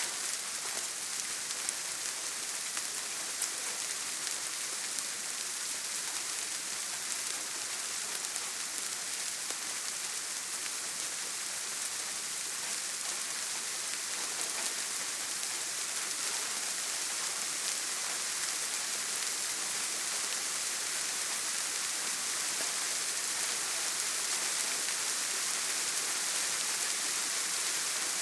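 Steady heavy rain on a tin roof, a dense hiss of drops with fine pattering ticks, growing slightly louder near the end.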